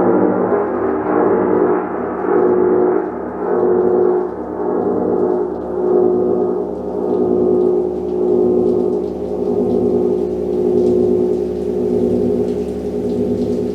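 Gong ringing in a dense wash of many steady overtones that swells and ebbs about once a second. Its brighter upper tones gradually die away, leaving the lower hum.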